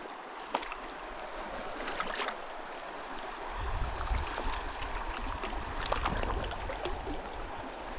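Small mountain stream running steadily, with a few short splashes and clicks as a small rainbow trout is handled at the water's edge; a low rumble comes in about halfway through.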